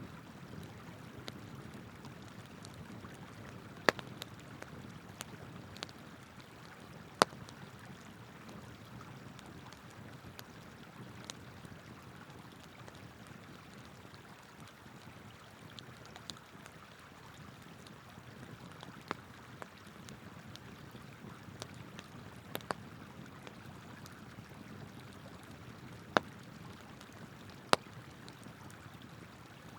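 Wood campfire crackling, with a handful of sharp, isolated pops scattered through, over the steady rush of a flowing river.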